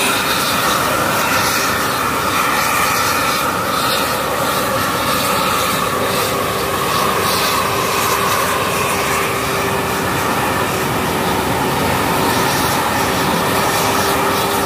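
Continuous loud mechanical running noise with a steady whine and a higher tone that drifts slightly in pitch.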